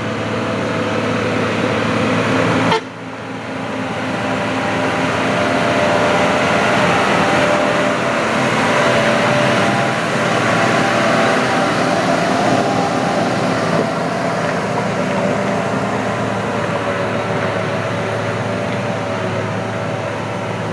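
Heavy truck's diesel engine labouring under load on a steep uphill climb, running steadily and loud. Its level drops suddenly about three seconds in, then builds back up and holds.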